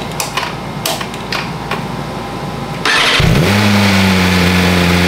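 A few light clicks, then about three seconds in the BMW M1000RR's inline-four engine is cranked and catches almost at once, rising briefly in pitch and settling into a steady idle. It is the bike firing up after its new carbon fuel tank and fuel pump connection were fitted.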